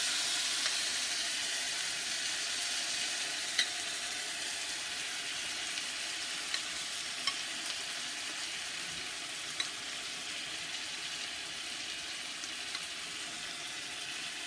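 Salmon sizzling in a pan as sauce is spooned over the pieces: a steady frying hiss that slowly gets quieter, with a few light clicks of the spoon against the pan.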